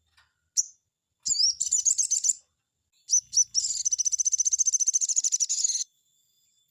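Sogon bird singing high and loud: a short chirp, then a rapid jumbled run of notes, and after two sharp notes a long, fast, even trill lasting about two seconds.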